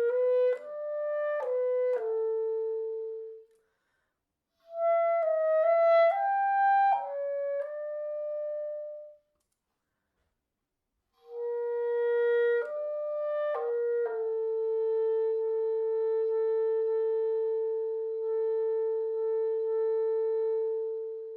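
Music: a solo woodwind, clarinet-like, plays short melodic phrases separated by two brief silences, then holds one long steady note.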